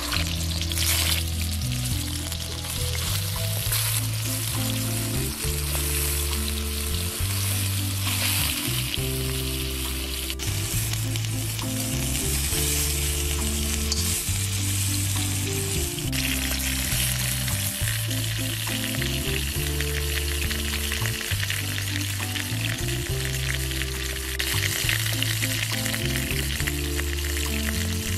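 Stuffed bitter gourds sizzling as they fry in hot oil in a wok, with the scrape of a metal spatula turning them. Under the sizzle runs background music with a repeating low bass line.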